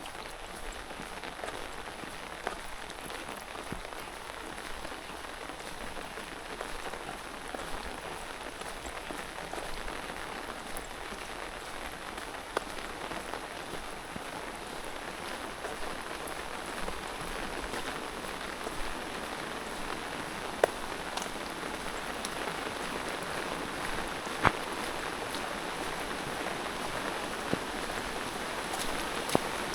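Steady rain falling, with a few louder single drops striking now and then; the rain grows slightly louder toward the end.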